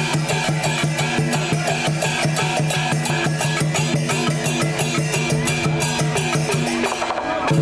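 Chinese drum, gong and cymbal band playing a fast, dense beat for a snake dance. It thins briefly near the end, then picks back up.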